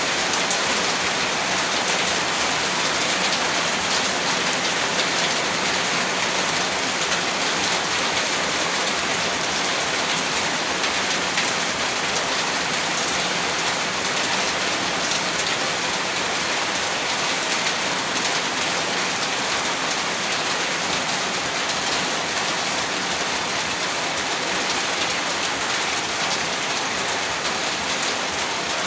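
Heavy rain falling steadily, a dense even hiss of drops striking a surface, with no let-up.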